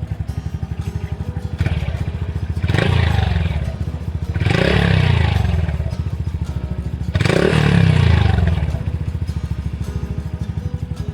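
Honda Super Cub C125's single-cylinder four-stroke engine idling through a Yoshimura GP MAGNUM Cyclone exhaust, blipped three times. Each blip rises in pitch and falls back to a steady, pulsing idle.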